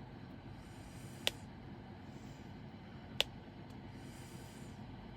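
Diamond-painting drill pen tapping resin drills onto the canvas: two sharp clicks about two seconds apart over a faint steady hiss.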